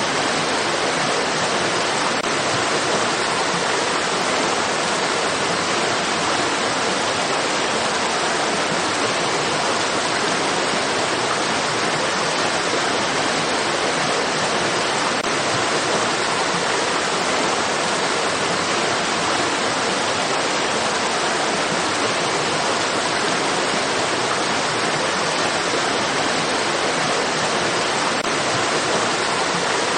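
Rushing water, a steady hiss-like rush that does not change.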